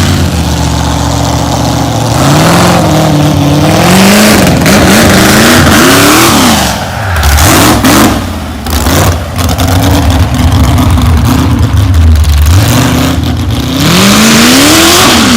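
Car engine revving up and down several times, loud, with a rough, noisy running sound between the revs.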